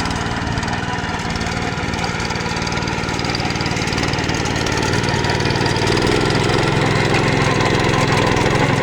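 Engine of a mini walk-behind hand tractor running steadily as it plows, growing louder about six seconds in.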